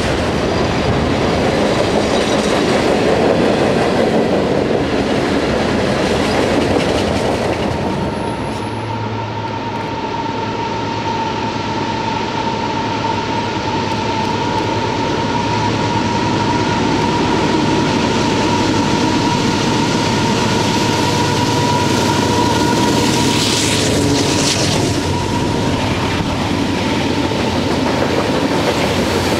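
Freight cars rolling past on the rails with a steady rumble and clickety-clack. After a short dip, a second freight led by GE AC4400CW diesel locomotives approaches and rolls by. Its wheels give a long steady squeal on the curve, starting about ten seconds in and lasting well over ten seconds.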